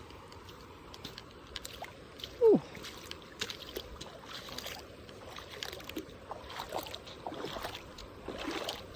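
Irregular water splashes and sloshing from a person moving through a river pool, over the faint steady rush of the river. A short "ooh" about two and a half seconds in.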